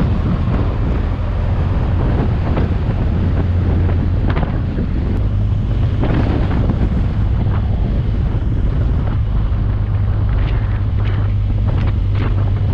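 Motorcycle engine running steadily at road speed under heavy wind noise buffeting the microphone, which comes in gusts.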